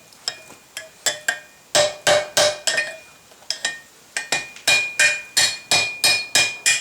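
Hand hammer striking a hot mild steel bar on an anvil, forging its end flat and round for a hinge point. Scattered ringing blows, a pause of about a second, then a steady run of about four blows a second.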